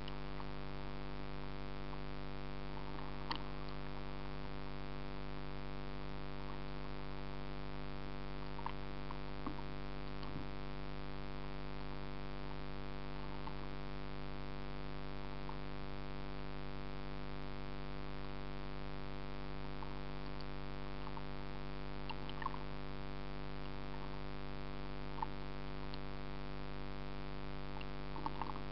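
Steady electrical hum with many overtones, unchanging throughout, with a few faint scattered clicks and chirps.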